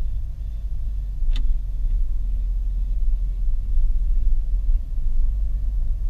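Steady low rumble of a car driving along a road, engine and tyre noise, with one brief click about a second and a half in.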